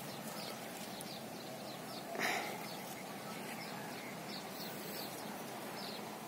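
Faint birds chirping, short high calls scattered over a steady outdoor background hiss, with one brief louder noise about two seconds in.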